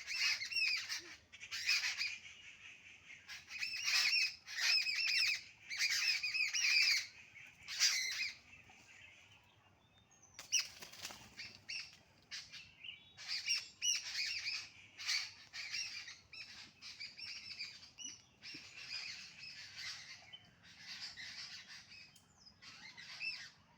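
A bird chirping and calling in repeated bursts about a second long, with short pauses between them and a longer lull near the middle.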